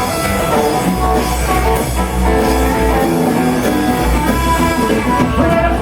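Rock and roll band playing an instrumental passage without vocals, guitar to the fore over bass.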